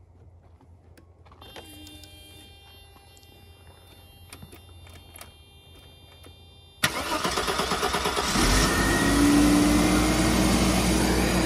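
The straight-six engine of a 1991 Mercedes-Benz W124 300E is started: about seven seconds in the starter cranks with a rapid even pulsing, the engine catches after about a second and a half, and it settles into running with its pitch rising slightly.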